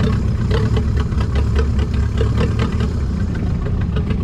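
Boat engine running steadily, with a run of short clicks and knocks over it in the first couple of seconds.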